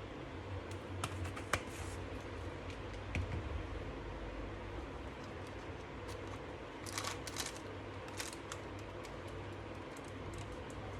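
Fish pakora batter being mixed in a bowl: scattered light clicks and scrapes, busiest about a second in and again around seven seconds, over a steady low hum.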